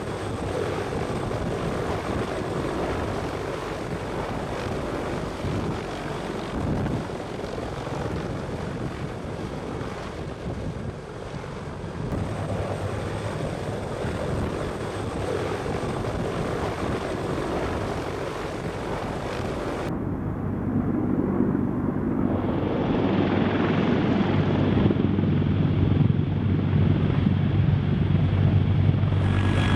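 CH-53K King Stallion heavy-lift helicopter in flight: a steady rush of rotor and turbine noise. After a cut about two-thirds of the way through it becomes louder, with a low, steady rotor drone.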